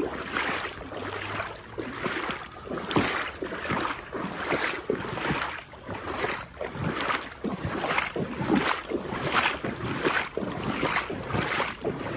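Legs wading through knee-deep floodwater, a rhythmic swish and slosh of water with each stride, about two steps a second.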